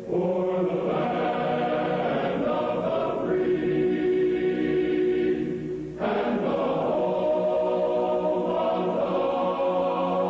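Choir singing slow, held chords. There is a brief break between phrases about six seconds in.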